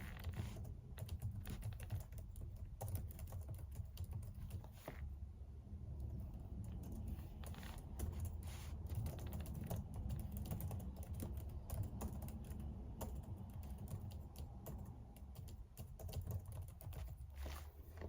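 Typing on a computer keyboard: a steady run of quick, irregular key clicks over a low rumble.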